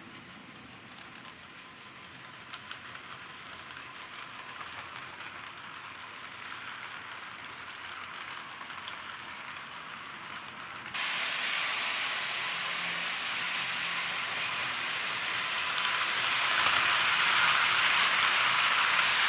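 HO scale model train, a locomotive pulling passenger cars, running on the track: a steady whirring hiss of wheels and motor that grows louder, jumping up suddenly about eleven seconds in, with a few faint clicks near the start.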